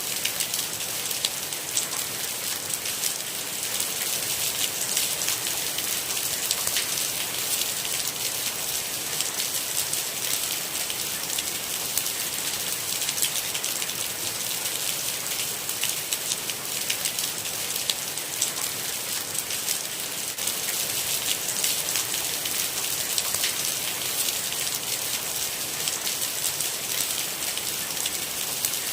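Steady rain falling, a constant hiss with a dense patter of small drop ticks.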